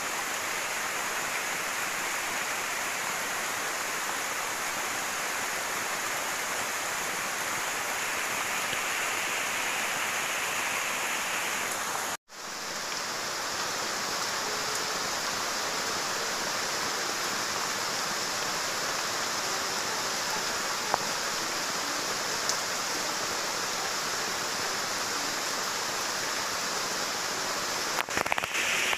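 Steady heavy rain falling on the forest leaves, an even hiss throughout. The sound drops out for a moment about twelve seconds in, then the rain carries on, with a few faint drips and taps.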